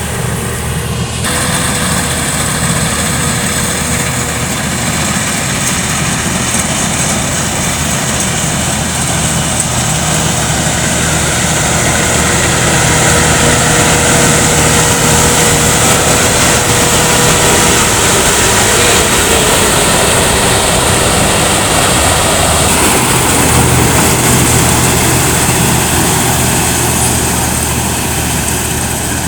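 Rice combine harvester running steadily, its engine drone mixed with the hiss of the working machinery, growing a little louder about halfway through.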